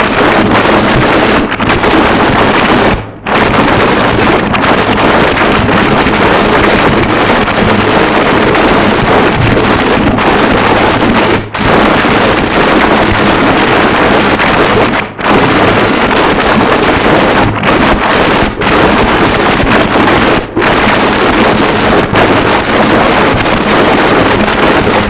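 Harsh noise wall: a loud, unbroken wall of distorted static with no rhythm or pitch, over a faint steady low hum, cutting out for a split moment four times.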